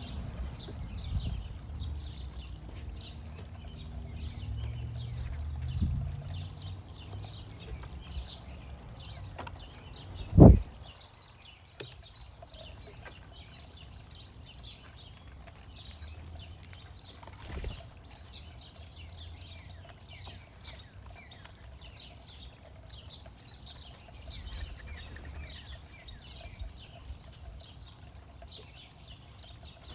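Small birds chirping repeatedly, short high calls heard throughout. A low rumble sits under the first few seconds, and one loud thump comes about ten seconds in.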